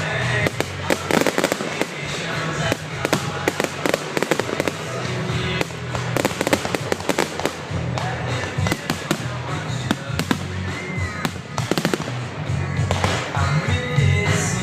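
A fireworks display going off in a rapid, unbroken run of bangs and crackles, with music playing underneath.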